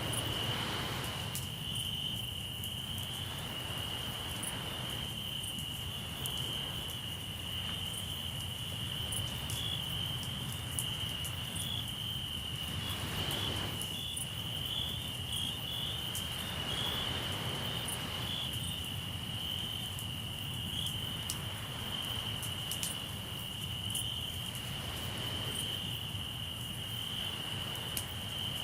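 Crickets chirping in a steady, continuous high trill, with the light pops and crackles of a wood campfire and soft swells of surf rising and falling now and then.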